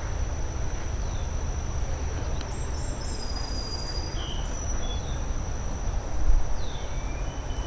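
Steady high-pitched insect drone, like crickets or katydids, with a few short bird chirps, over a low rushing background of creek water or wind.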